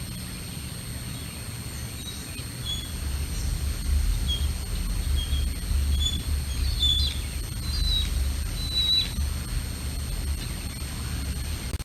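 Small birds chirping in short, scattered notes, busiest in the middle, over low gusting wind rumble on the microphone.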